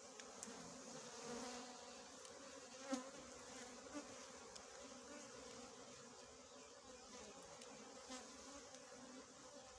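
Small honeybees buzzing around their disturbed nest: a faint, steady hum, with a couple of light clicks, the loudest about three seconds in.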